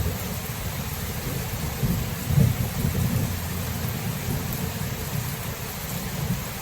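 Thunderstorm: steady rain hiss under a low rumble of thunder that swells about two to three seconds in and then eases.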